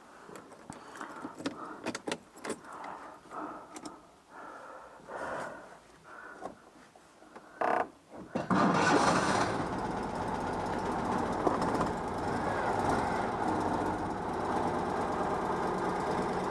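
Scattered clicks and knocks, then a little past halfway the freshly rebuilt Citroën 2CV's air-cooled flat-twin engine starts and runs steadily.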